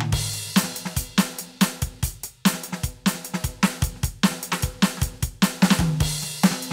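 Roland TD-17KVX electronic drum kit played as a groove of kick, snare and hi-hat with a cymbal crash about a second in. It finishes with a fill on the toms near the end.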